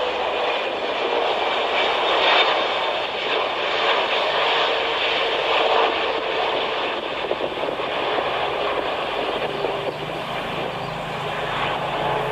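Landing airplane's engines running with a steady noise, a faint whine sinking slowly in pitch, and a low rumble coming in over the last few seconds.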